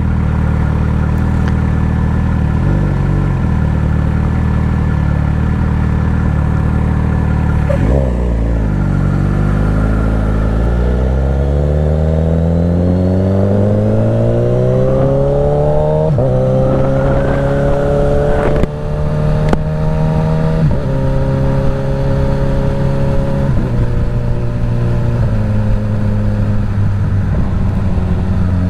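Suzuki GSX-S1000's inline-four through a full Dominator exhaust, heard from the rider's helmet on the move. It runs steadily at first; about eight seconds in the revs dip and then climb in a long rising pull, with a gear change a little past halfway and a few smaller shifts near the end.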